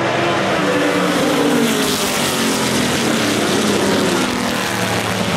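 A field of historic sports racing cars accelerating away at the start of a race, several engine notes overlapping at high revs, with pitches dropping as cars pass by.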